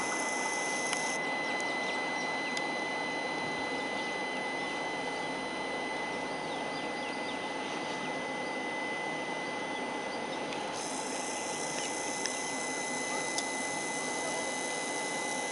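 Steady mechanical hum with a constant high-pitched whine from a standing passenger train, with a few faint ticks.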